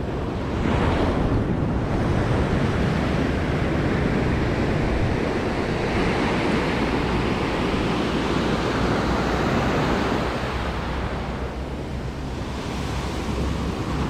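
Ocean surf washing up on the beach, a wave surging in about a second in and easing off around ten seconds, with wind buffeting the microphone.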